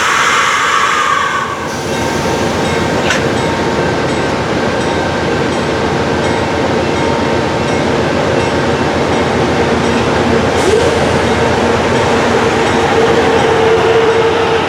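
Amtrak passenger train passing at speed. A horn blast cuts off about a second and a half in, then steady wheel and rail noise, with a thin steady tone growing louder toward the end.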